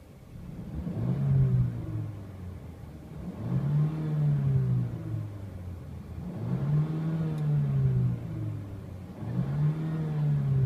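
2014 Mercedes-Benz CLA250's turbocharged 2.0-litre four-cylinder engine revved from idle four times in a row. Each blip of the throttle rises in pitch and falls back, about every two and a half to three seconds.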